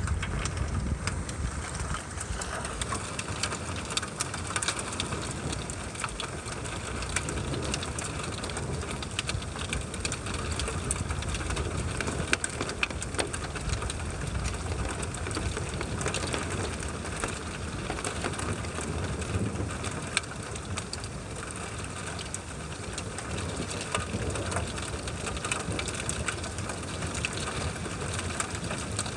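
Steady rain in a thunderstorm, with many sharp drops tapping close by over a low, uneven rumble.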